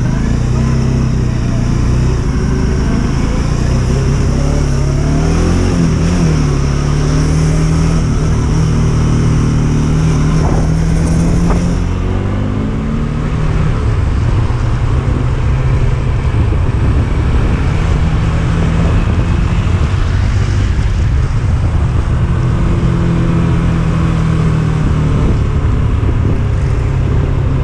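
Motorcycle engine running while riding, its pitch rising and falling with the throttle, over steady wind rush.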